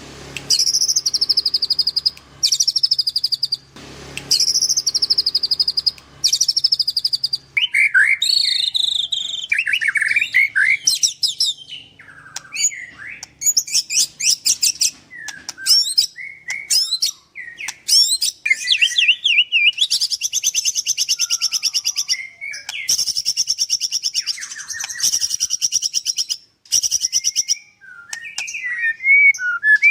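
White-rumped shama (murai batu) singing: fast, high rattling trills, each about a second and a half long, at first, then a varied run of whistled notes and slides, with long rapid trills returning in the second half.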